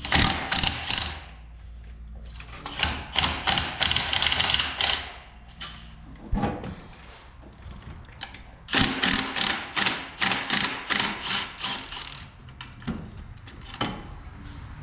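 Hand ratchet wrench clicking in three quick runs of rapid clicks, with pauses between.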